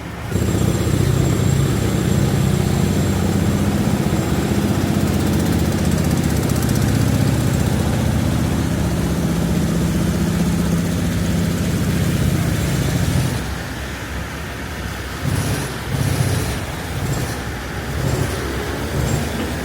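Street traffic: a motor vehicle's engine runs close by with a steady low rumble over the hiss of a wet city street. About two-thirds of the way through it drops away, leaving uneven passing-traffic noise.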